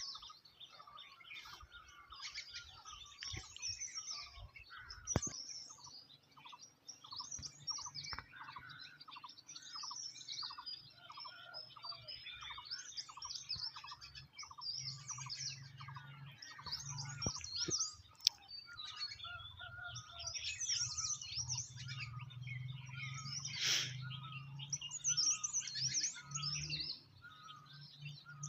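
Several songbirds chirping and trilling together in a busy chorus, with a repeated lower note about twice a second through the first half and a faint low hum underneath later on.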